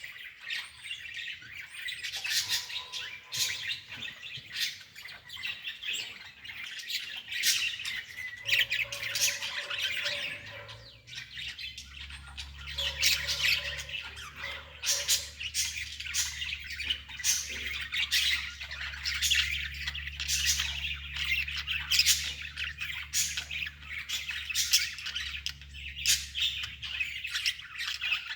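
Birds chirping over and over in quick, short calls, with a steady low hum coming in about twelve seconds in.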